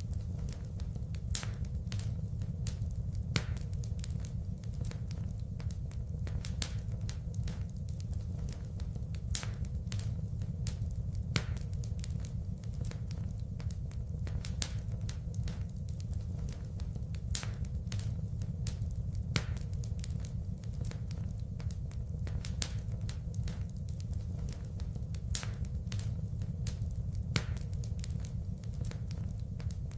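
Wood fire burning in a fireplace: a steady low rumble with constant crackling and sharp pops, a louder pop every couple of seconds.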